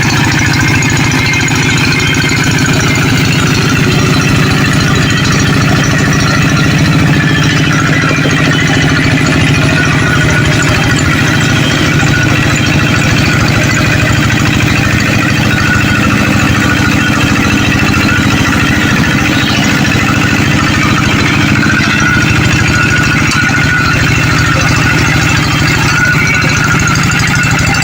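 Tractor engine running steadily at a constant speed, with an even, unchanging level.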